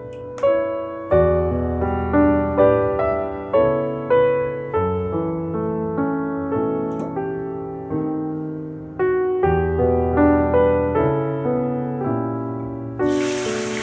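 Background piano music, notes and chords struck in an even, gentle rhythm. In the last second, hot oil in a wok starts sizzling as shredded ginger goes in.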